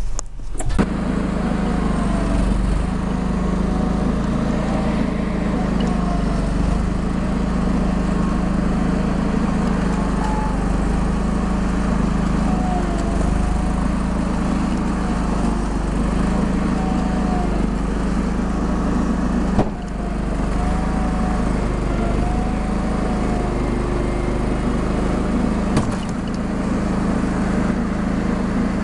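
An engine running steadily at an even speed, with two brief dips about 20 and 26 seconds in.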